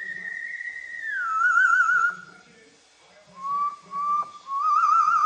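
Pet parrot whistling: a long held note that slides down into a fast warbling trill, then two short notes and another long warbling whistle near the end.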